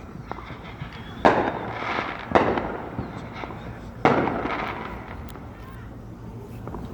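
Fireworks bursting: three sharp booms, each trailing off in a long echo, with faint crackles between them.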